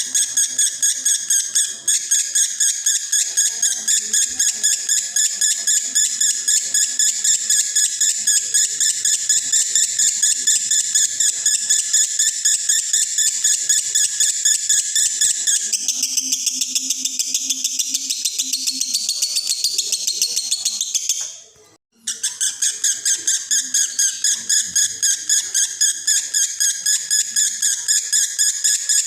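Male lovebird singing a long, unbroken 'konslet' chatter of rapid, repeated high chirps. It breaks off for a moment about 22 seconds in, then carries on.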